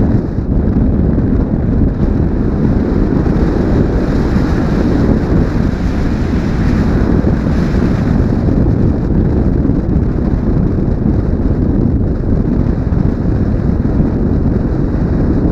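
Steady, loud wind rush buffeting a helmet-mounted action camera's microphone on a moving motorcycle, with the bike's road and engine noise blended underneath.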